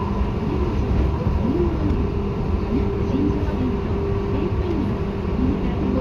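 Seibu 2000 series electric commuter train running, heard from inside a car: a steady rumble of wheels on rail with a steady hum.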